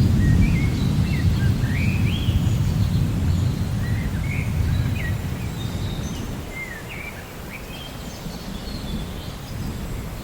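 Rainforest ambience: a low rolling rumble of thunder, loudest at the start and fading away over several seconds, under many birds chirping in short rising and falling notes.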